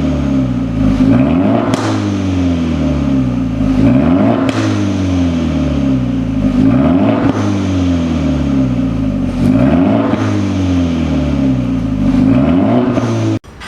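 Exhaust of a Hyundai Veloster Turbo's turbocharged four-cylinder engine through an aftermarket valved variable exhaust, revved about every two to three seconds and falling back toward idle after each blip, with a deep tone. The sound cuts off abruptly near the end.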